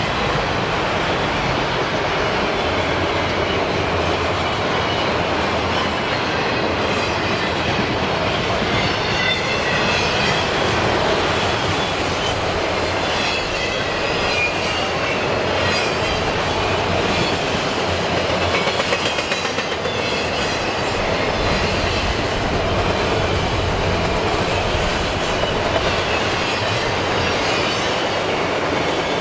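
CSX freight train of empty auto rack cars rolling past: a steady rumble and clatter of steel wheels on the rails, with a faint high wheel squeal wavering for several seconds near the middle.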